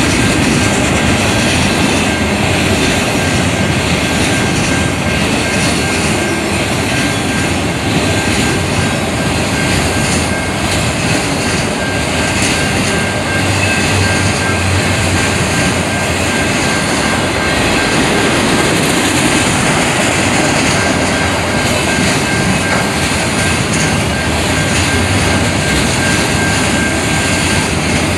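Long freight train of autorack cars rolling steadily past, its wheels running loudly on the rails, with a grade-crossing bell ringing steadily over it.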